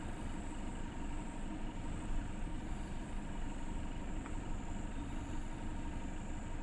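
Toyota Tacoma pickup truck running, a steady low drone of engine and vehicle noise.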